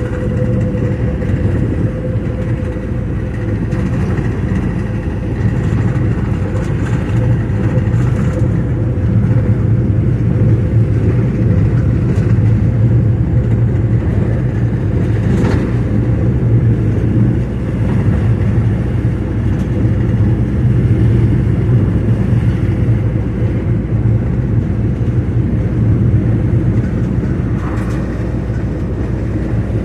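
Steady low rumble of a motor vehicle driving, with a faint steady hum above it.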